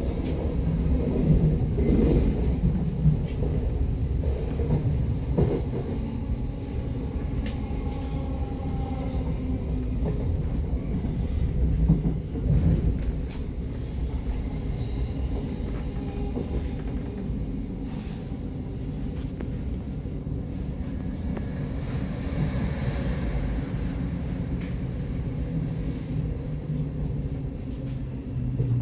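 Thameslink electric train heard from inside the carriage, running with a steady low rumble and odd clicks from the track. About halfway through it turns quieter as it slows into the station platform.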